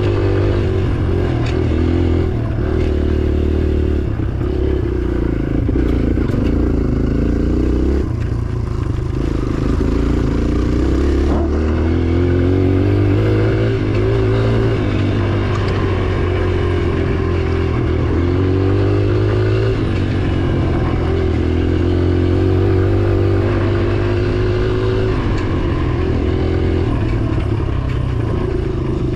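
Dirt bike engine revving and easing off over and over as it is ridden, its pitch climbing and dropping every few seconds.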